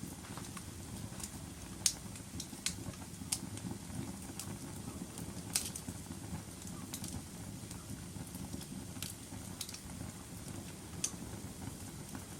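Wood fire burning in a fireplace: a steady low rumble of flames with sharp, irregular crackles and pops, the loudest about two seconds in.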